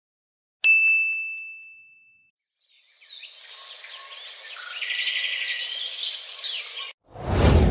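A single bright ding, a struck bell-like tone that dies away over about a second and a half. From about three seconds in comes a chorus of birds chirping, which cuts off abruptly. A loud rushing whoosh starts near the end.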